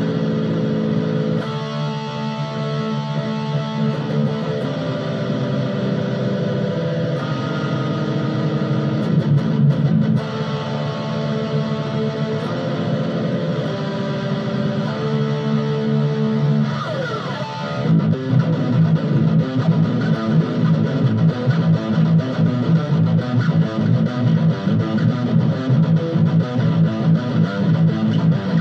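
Legator Ghost seven-string headless fanned-fret electric guitar being played: held notes and chords for the first stretch, then, about 18 seconds in, fast rhythmic low riffing.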